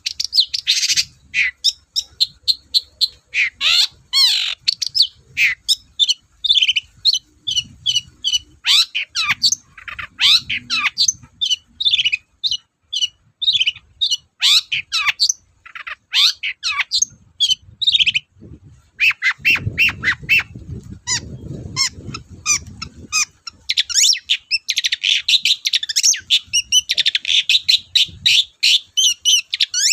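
Long-tailed shrike (cendet) singing without pause: a fast string of short, sharp chirps and quick whistled sweeps, with a few harsh squawking notes.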